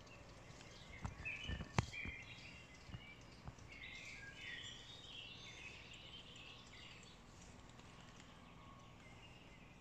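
Wild birds chirping and calling over faint outdoor background noise, busiest from about four to seven seconds in. A few sharp clicks or knocks come in the first few seconds, the loudest about two seconds in.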